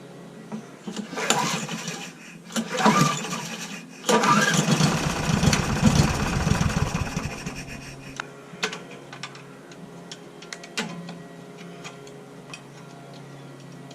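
Four-stroke lawnmower engine being pull-started: three yanks of the recoil cord, the last spinning the engine over for a few seconds before it runs down without starting. A few light clicks follow.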